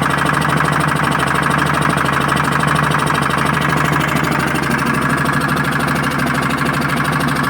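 Air-cooled generator engine running steadily with a fast, even firing pulse.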